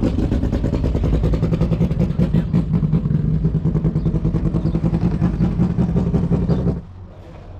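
Racing V8 engine of a historic muscle car running hard at steady high revs, loud and close, cutting off abruptly near the end.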